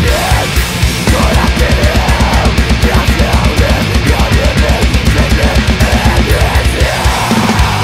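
Heavy, distorted death metal with fast, rapid-fire kick drumming pounding under dense guitars.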